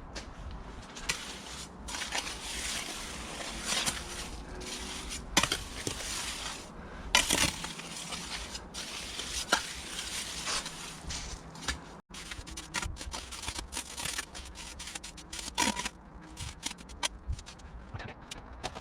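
Irregular scrapes, crunches and sharp knocks of hand tools working mortar and stone paving slabs.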